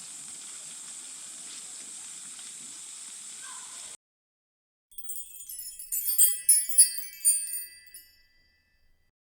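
A steady high hiss cuts off abruptly about four seconds in. After a moment of silence comes a short, sparkling jingle of bell-like chimes, which rings for about three seconds and fades out.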